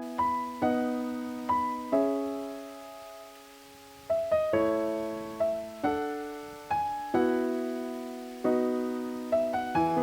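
Gentle piano background music: notes and chords struck and left to fade, with a short lull around three seconds in.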